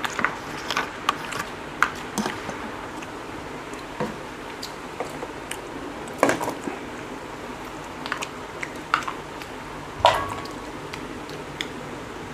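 Close, wet eating sounds: chewing and lip smacks as ripe jackfruit bulbs and egg-topped toast are eaten by hand, with scattered clicks of fingers and food against ceramic plates. A few louder smacks or clinks stand out, the sharpest about ten seconds in.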